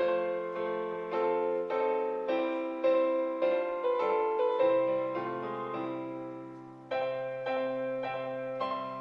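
Background piano music: a slow hymn tune played in struck notes and chords that ring and fade, with a brief lull just before a new chord about seven seconds in.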